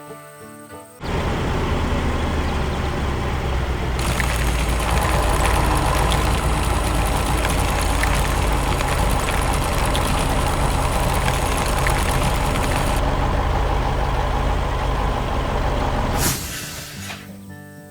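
Heavy construction machinery engine running loud and steady with a deep rumble, a brighter, busier layer joining in about three seconds in and dropping away near the end, then a short sharp hiss as it stops.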